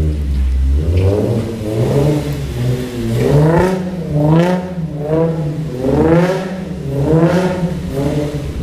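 Infiniti G35's V6 with an aftermarket exhaust revving hard, its pitch rising and falling about six times in quick waves as the car is driven in donuts.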